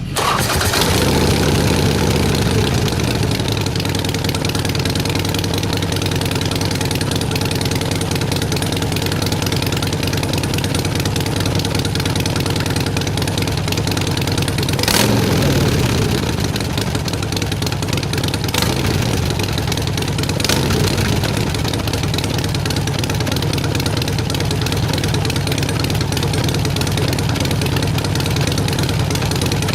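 2008 Harley-Davidson Nightster's air-cooled V-twin idling through Vance & Hines side-shot pipes that have had their crossover pipe cut out. The throttle is blipped just after the sound comes in, again more strongly about fifteen seconds in, and lightly twice a few seconds later.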